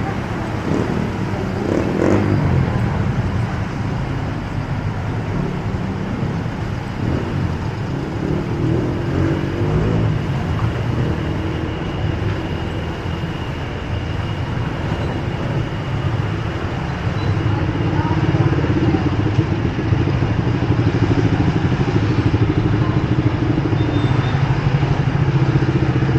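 Street traffic, mainly motorcycle and car engines running close by. It grows louder about two-thirds of the way through and stays loud to the end.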